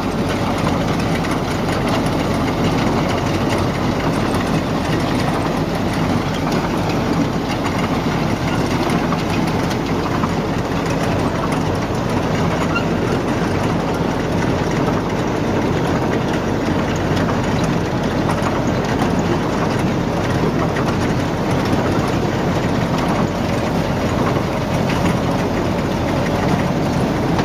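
Heavy machinery running steadily: an engine with a continuous mechanical clatter, unchanging throughout.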